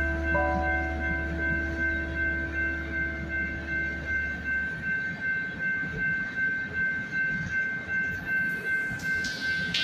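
Freight train cars rolling past a level crossing, heard from inside a car: a steady rumble with rhythmic clacking about twice a second, and a steady high tone held throughout.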